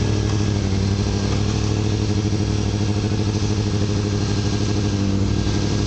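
Kawasaki 636 streetfighter motorcycle's inline-four engine idling steadily.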